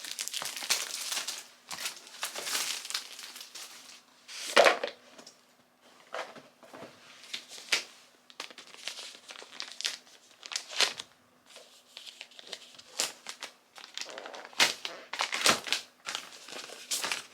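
Packaging being handled and unwrapped by hand while a new camera and its accessories are unpacked: irregular crinkling and rustling, with the loudest crackle about four and a half seconds in.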